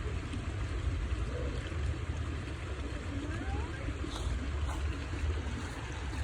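Creek water running steadily, with a low wind rumble on the microphone and a couple of faint clicks a little past the middle.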